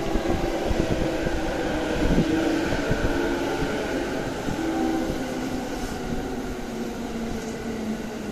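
Steady hum and rumble of an E217-series electric train standing at a station platform, with held droning tones from its running equipment.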